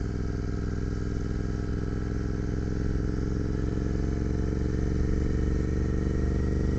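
Royal Enfield motorcycle engine running steadily while riding at low speed, getting a little louder over the last few seconds.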